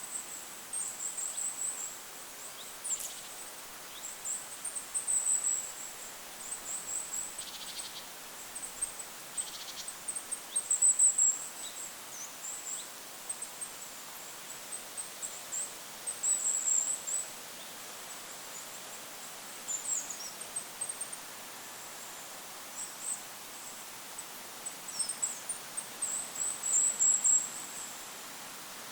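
Goldcrest singing and calling: bursts of very high, thin notes repeated every second or so, with a couple of short pauses, over a steady hiss of wind.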